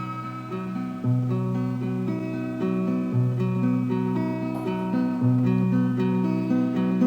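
Instrumental music on acoustic guitar: a repeating picked pattern of notes over a low bass note struck about every two seconds.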